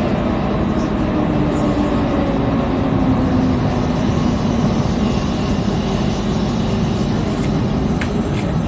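X10 electric commuter train running along the line: a steady rumble of wheels and running gear, with a faint tone through it.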